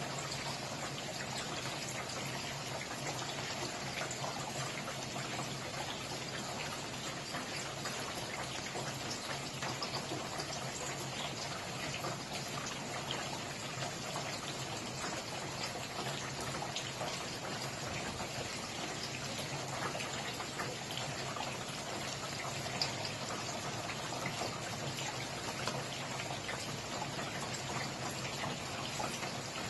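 Steady rain falling, an even hiss dotted with many small drop ticks and occasional louder drips.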